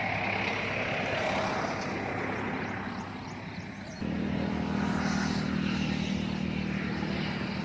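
Steady rushing of overflowing stream water. About four seconds in the sound changes abruptly and a steady low engine hum joins it.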